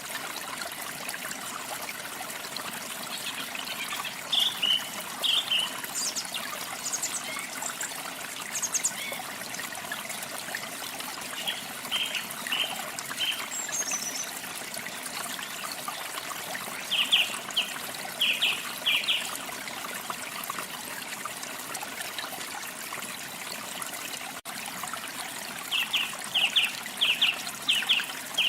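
Steady trickling running water, with small birds chirping now and then in short runs of quick high notes and one brief falling whistle.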